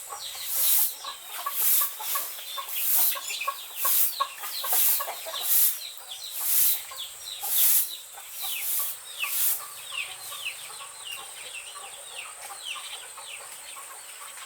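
Chickens calling with many short, falling peeps. A rhythmic swishing hiss about once a second runs alongside and dies away about two-thirds of the way through.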